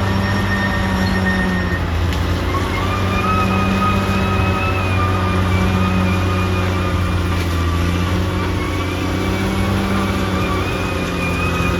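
Caterpillar D6R XL bulldozer's diesel engine running steadily, with a thin high whine over it that steps up slightly in pitch about two and a half seconds in.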